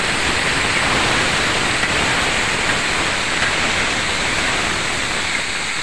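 Cubes of kohlrabi and potato, freshly added to hot oil in a kadai, sizzling loudly and steadily.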